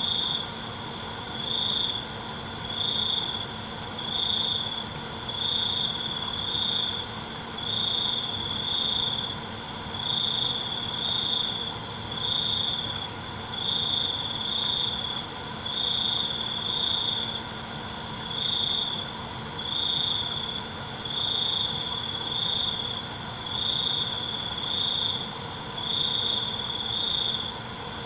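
Night chorus of crickets: one cricket chirping in short bursts roughly once a second, over fainter rapid trills and a steady high-pitched insect drone.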